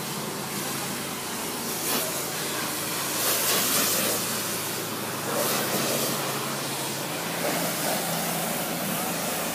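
Car wash water jets spraying onto a car: a steady hiss that swells and fades in surges every second or two, over a low steady hum.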